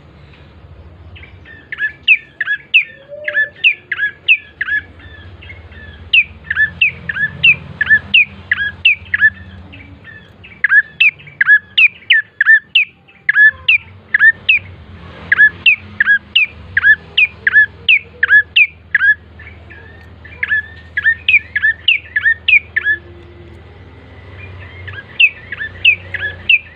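Ashy tailorbird (prenjak coki) calling in rapid series of sharp, down-slurred notes, about four a second, in bursts of a few seconds separated by short pauses, over a faint low hum.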